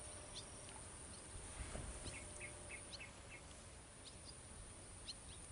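Faint birdsong: scattered short, sharp chirps, with a quick run of about five short notes about two seconds in.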